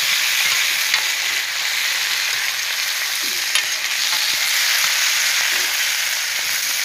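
Chicken and vegetables frying in a wide steel pan over a wood fire, a steady sizzle, stirred with a metal ladle that clicks lightly against the pan a couple of times.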